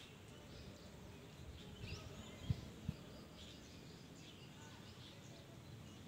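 Faint, scattered bird chirps over quiet outdoor background noise, with two short, soft low thumps about two and a half and three seconds in.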